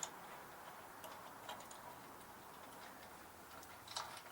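A few faint small clicks and taps of metal carburetor parts being unscrewed and taken out by hand, with a quiet background in between.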